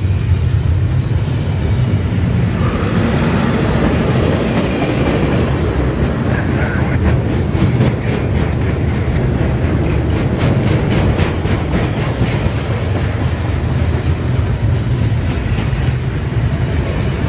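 Freight train of double-stack container well cars rolling past close by: a steady, loud rumble, with the wheels clicking over rail joints in a quick, even rhythm through the middle.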